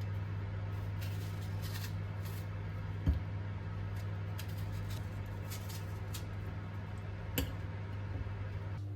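Soft kitchen food-preparation handling: small clicks, rustles and light taps, with two brief knocks, over a steady low hum.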